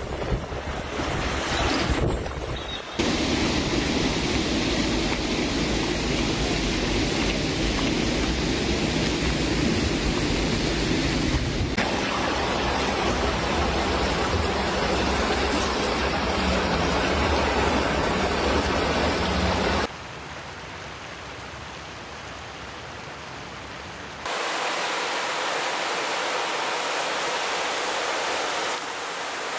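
Rushing water and wind, a steady noise that changes suddenly several times where clips are cut together, quieter for a few seconds after the middle.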